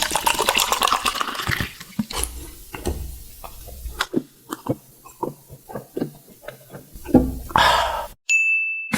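Close-miked ASMR eating sounds: a hissy rustle, then a run of irregular sharp crunches and mouth clicks, and another rustle. Near the end the sound cuts to silence and a short, steady high beep follows.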